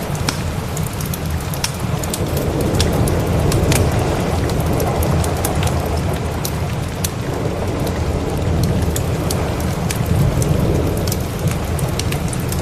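Steady rain with a low rumble of thunder that swells twice, mixed with many small sharp crackles of a wood fire.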